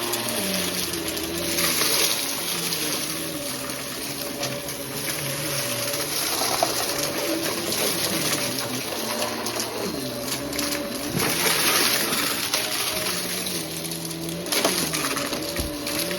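Vacuum cleaner running: a steady motor hum over a rush of suction air, its pitch wavering up and down as it is worked over the mess.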